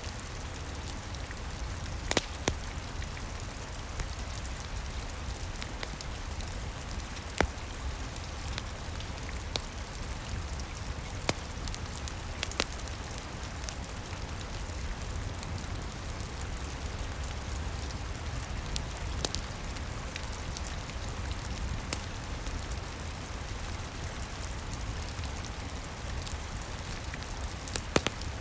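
Steady rain falling on a roof, with a low rumble underneath, mixed with a fireplace crackling: a few sharp pops every few seconds over the hiss.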